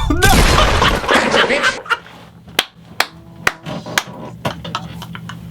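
A loud noisy rush for about the first second and a half, then a run of sharp smacks or knocks about half a second apart.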